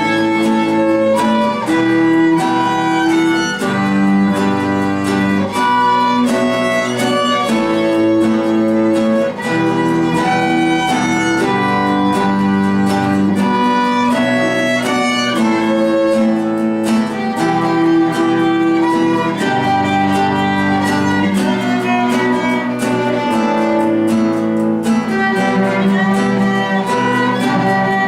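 Live instrumental string ensemble: two violins play the melody in long held notes over a cello bass line and a steady acoustic guitar accompaniment.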